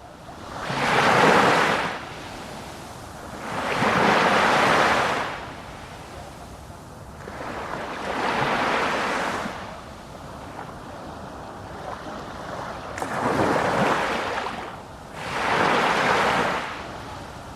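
Ocean waves breaking and washing in, each surge of surf swelling and fading every three to four seconds over a steady hiss.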